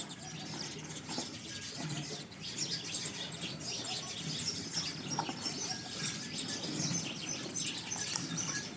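Many small birds chirping busily, with a dense stream of short, high chirps overlapping throughout.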